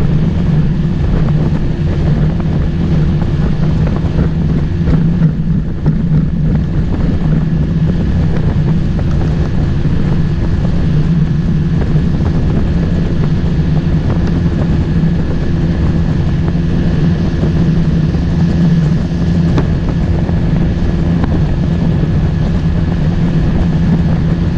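Motorboat engine running at a steady speed under way, a constant drone with wind buffeting the microphone.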